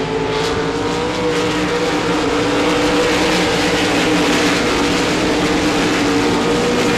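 RaceSaver sprint cars' 305 cubic-inch V8 engines running hard at race speed, holding a steady, slightly wavering pitch.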